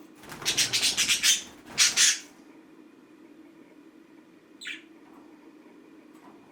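Pet green budgie squawking: a rapid run of harsh calls, then a louder squawk about two seconds in, and one short chirp later.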